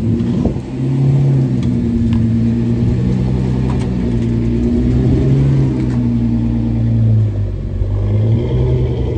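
Vehicle engine running at low revs, its note rising and falling as it is eased along in short pulls of the throttle.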